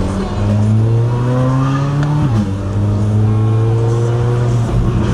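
C8 Corvette Z06's flat-plane-crank V8 with titanium exhaust accelerating, its pitch climbing steadily. It drops once a little over two seconds in at an upshift, then climbs again in the next gear.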